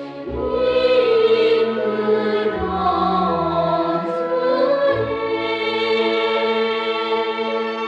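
Music: a choir singing long held notes with vibrato over a sustained accompaniment, the low notes changing a few times.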